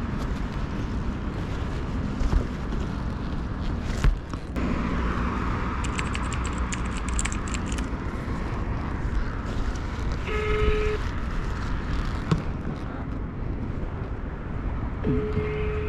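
Motorcycle riding through city traffic, a steady rumble of engine, wind and road noise. A vehicle horn gives two short toots, about ten seconds in and again near the end.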